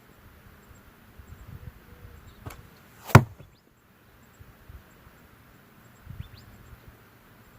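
A slingshot fired once: the rubber bands release with a single sharp snap about three seconds in, shooting a 1/2-inch steel ball. A fainter click comes just before it, and faint bird chirps follow later.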